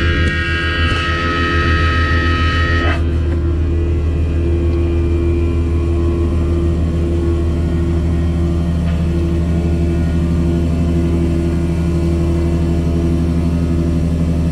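Tanker truck's diesel engine idling steadily, with a higher-pitched whine over it for the first three seconds that stops abruptly.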